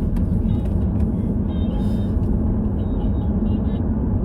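Steady road and engine rumble inside a moving car's cabin, with brief faint high squeaks now and then, which the driver puts down to the child's car seat creaking.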